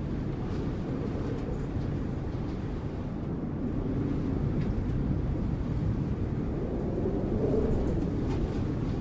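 Strong wind blowing in gusts: a steady low rumble that swells about seven seconds in.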